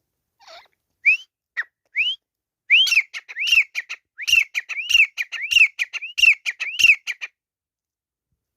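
Grey francolin calling: a few separate rising whistled notes, then a fast run of repeated rising-and-falling notes, about two a second, that stops a little over a second before the end.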